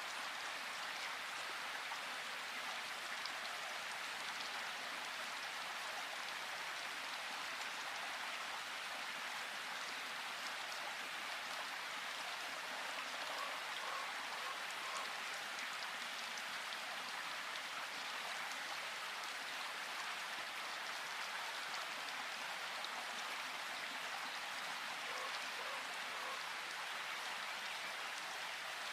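Steady rain falling in a forest, an even unbroken wash of drops at a constant level.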